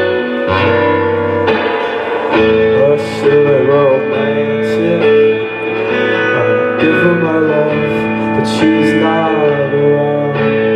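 Live song played on guitar, with a singing voice carrying a wavering melody over sustained chords.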